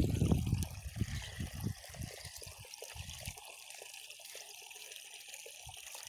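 Water splashing and trickling: a loud low rumble and a run of quick splashes in the first couple of seconds, then a quieter steady trickle.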